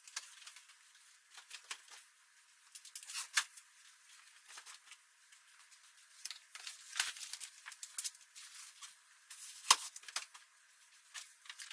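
Scattered clicks, knocks and rustling of household items being handled and moved across a room, faint and irregular, with a louder knock about three and a half seconds in and another near ten seconds.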